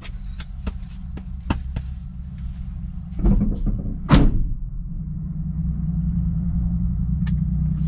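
Low, steady rumble of a turbo race truck's engine idling, with scattered clicks and knocks. Two louder thumps come about three and four seconds in, and the rumble grows a little louder after about five seconds.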